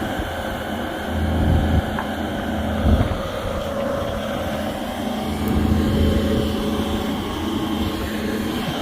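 Diesel engine running steadily at a low hum, its level swelling and easing off a few times.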